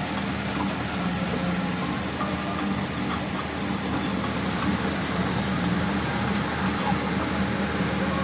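Steady airliner cabin noise inside a Boeing 787-8: an even rush of cabin air-conditioning with a low hum underneath.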